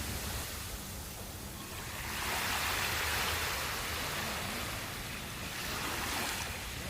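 Sea waves washing onto a sandy beach: surf hiss that swells as a wave comes in about two seconds in and again, more briefly, near the end, over a steady low rumble.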